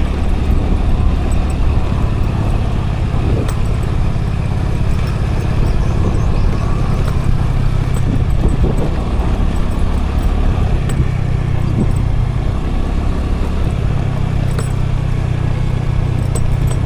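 Scooter engine running steadily with road and wind noise, recorded from a camera on the moving scooter; the engine note shifts a little a few times in the second half, and there are light rattling ticks.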